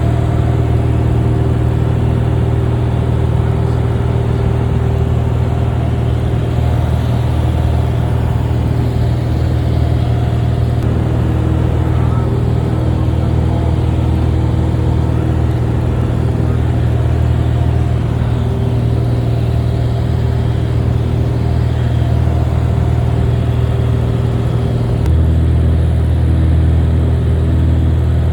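Cessna 172 single-engine propeller plane running steadily in flight, a loud even drone. Near the end the low engine note shifts slightly.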